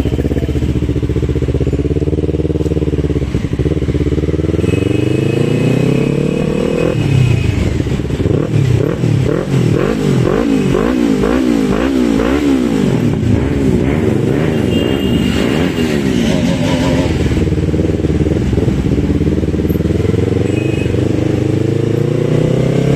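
Motorcycle engine on the move, its pitch climbing and dropping again and again as the throttle is opened and shut through the gears, with a quick run of rev rises and falls in the middle.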